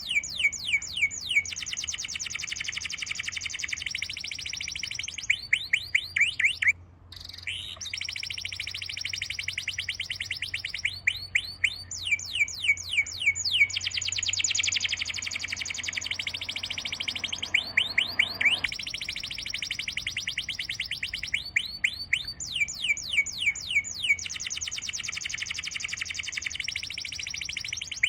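Songbirds singing: rapid runs of quick sweeping chirps alternating with dense high trills, with a brief break about a quarter of the way in.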